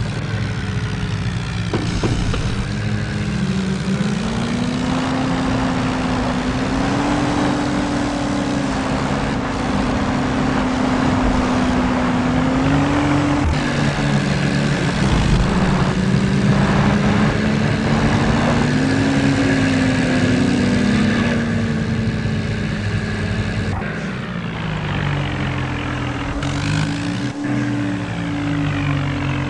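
Diesel tractor engines running hard, their pitch rising and falling as they are revved under load. Near the end two engine pitches cross, one rising while the other falls.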